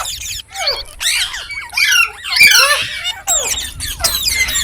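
Green parrot squawking and chirping: a rapid run of short, high calls that swoop up and down in pitch, several overlapping.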